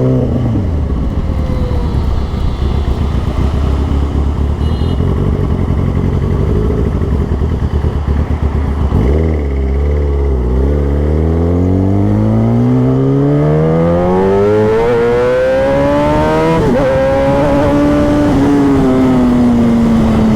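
Kawasaki ZX-10R's inline-four engine through an Austin Racing aftermarket exhaust, under way on the road. It holds a low, even note for the first half. About halfway it dips, then revs climb steadily, drop sharply at a gear change and climb again, before easing off slowly near the end.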